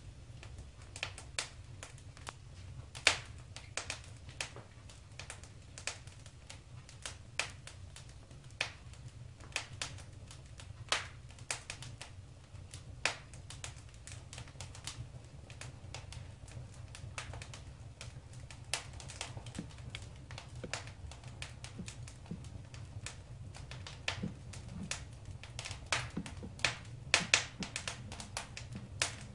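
Wood fire in a fireplace crackling, with irregular sharp pops and snaps over a low steady rumble of the burning fire; a few louder pops stand out, about three seconds in and again near the end.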